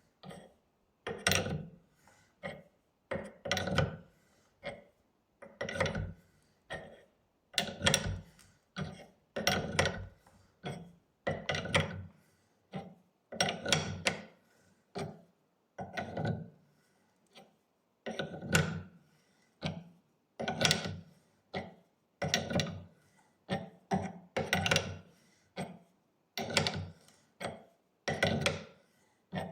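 Repeated knocks and clinks, about one or two a second, each ringing briefly: brake caliper parts and tools being handled and tapped on a workbench.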